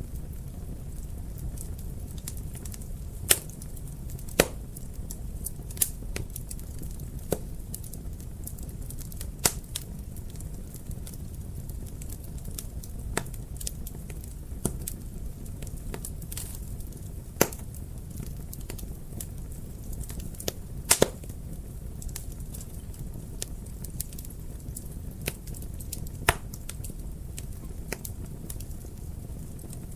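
Wood fire burning in a fireplace: a steady low rumble of flames with irregular sharp crackles and pops, a dozen or so loud ones among many small ones.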